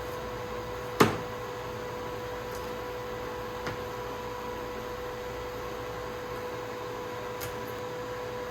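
A steady, even-pitched hum from a running household appliance, with one sharp click about a second in.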